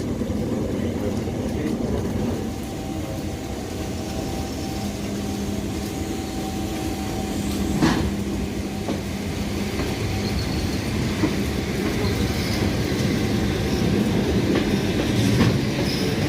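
ED4M electric multiple unit moving on the track, with wheels clattering over the rails and a steady electric motor hum. A single sharp clack comes about eight seconds in, and a tone rises in pitch near the end.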